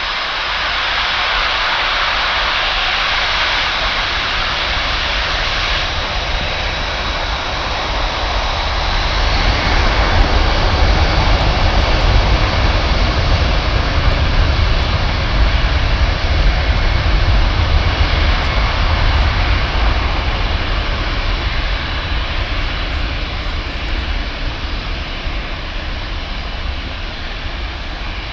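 Four-engine Boeing C-17A Globemaster III's Pratt & Whitney F117 turbofans at takeoff power, a loud, steady jet roar. A deep low rumble swells about a third of the way in and eases slightly near the end.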